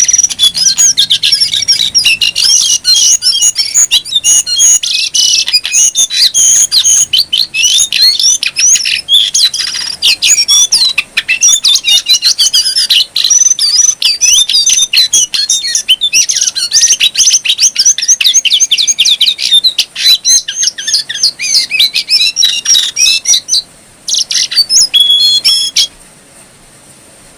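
Jongkangan coklat (brown jongkangan) songbird singing a fast, continuous, chattering twitter of quick high gliding notes. After a brief pause it gives a last short burst and stops about a second and a half before the end.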